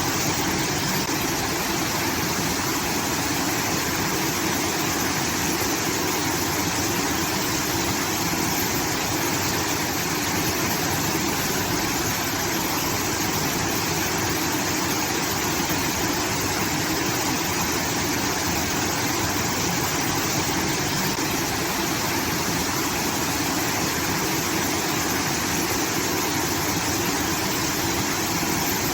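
Water pouring steadily from a rice-field irrigation outlet, a continuous waterfall-like rush with no change in level.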